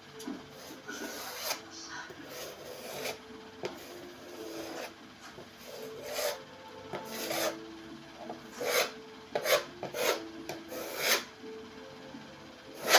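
Repeated hand scraping and rubbing strokes on laminate flooring, as in sanding or filing during a repair. There are about a dozen short strokes at an uneven pace.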